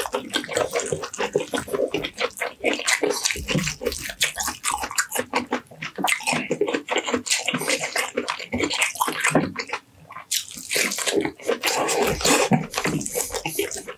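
Close-miked wet chewing and lip-smacking of roast chicken, mixed with the sticky crackle of the chicken's skin and meat being torn apart by hand. A dense run of small wet clicks, with a short lull about ten seconds in.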